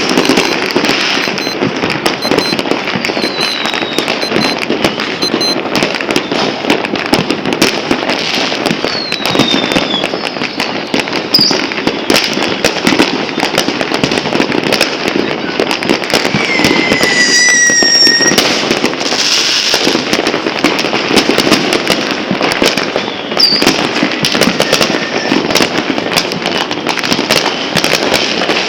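Dense, continuous crackling of fireworks and firecrackers, many overlapping bangs and pops with no pause. Several whistling rockets glide down in pitch, most plainly about 17 seconds in.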